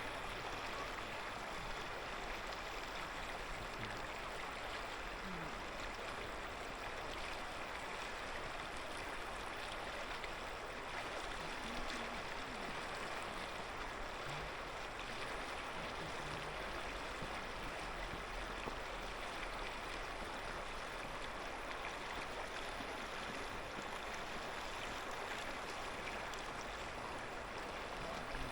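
Clear mountain river flowing steadily over stones, a continuous even rushing babble of water.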